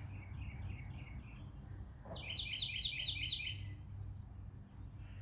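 Songbird singing: a string of short repeated chirps, then about two seconds in a louder run of about six quick falling notes, over a steady low background hum.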